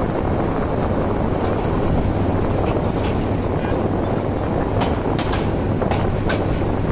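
Passenger train running along the track, heard from a coach window: a steady rumble of wheels and coaches with irregular sharp clicks, a few of them close together about five seconds in.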